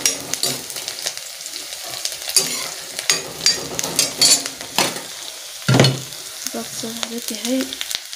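Sliced onions sizzling in hot oil in a stainless steel pot, stirred and scraped with a steel ladle that clicks against the metal, with one heavier knock about two-thirds of the way through.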